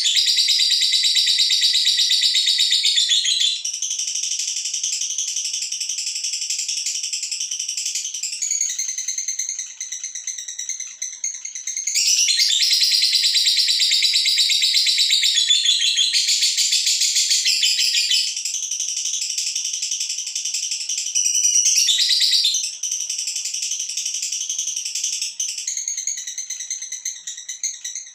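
Female lovebird giving its long, unbroken 'ngekek' chatter, a very rapid high-pitched trill. It runs on without pause, loudening and softening in long stretches.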